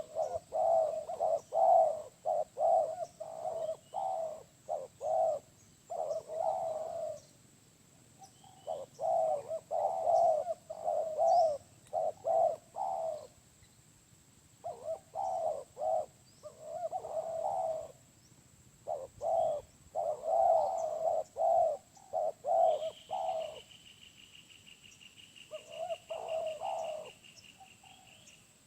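Spotted dove (tekukur) cooing over and over, phrase after phrase with short pauses between. A steady high-pitched buzz comes in near the end.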